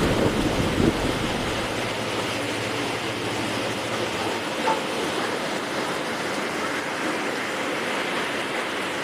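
Heavy rain falling in a steady hiss, with the low rumble of a thunderclap dying away over the first second or so.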